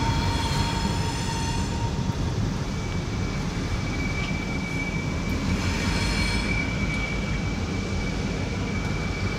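Norfolk Southern diesel locomotives rumbling as they pull around a curve, with wheel flanges squealing on the curved rail: a steady squeal that jumps to a higher, brighter pitch about three seconds in and holds.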